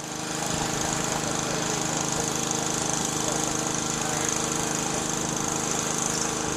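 An engine running steadily, rising in from silence at the very start and then holding an even level.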